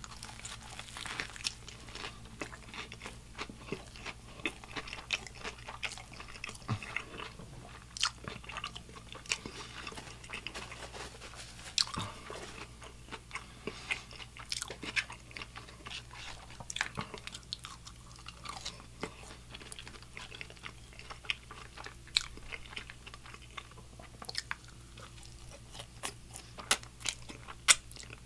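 Close-miked eating of a Nashville hot fried chicken slider: a bite into the breaded chicken and bun, then chewing with crunching of the fried coating and wet mouth clicks at irregular intervals. A steady low hum sits underneath.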